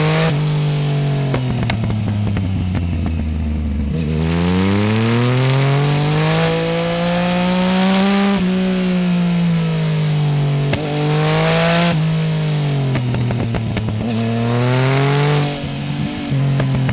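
Yamaha Tracer 900 GT's inline-three engine through a full Roads Italia exhaust without db-killer, pitch rising and falling several times as the throttle is opened and closed. There are crackles on the overrun in the first few seconds, and a brief drop in sound about 15 seconds in, as at a gear change.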